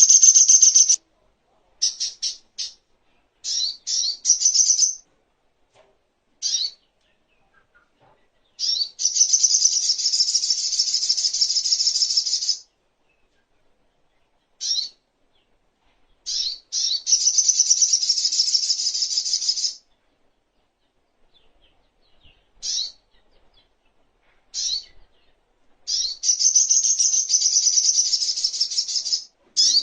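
Sogok ontong (little spiderhunter) singing: long, rapid, high-pitched chattering trills several seconds long, three times, separated by short sharp chirps and brief pauses.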